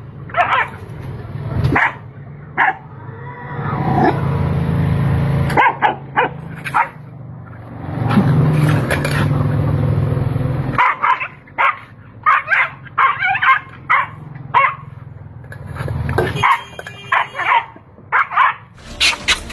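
A dog barking and yipping in many short, sharp calls, coming thick and fast in the second half, over a low steady hum for most of the stretch.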